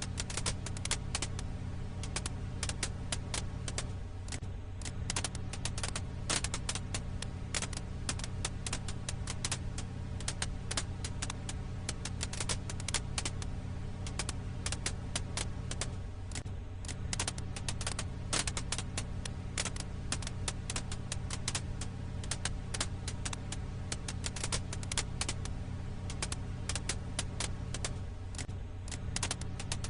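Firewood crackling: dense, irregular pops and snaps over a steady low rumble, from a short loop that repeats about every twelve seconds.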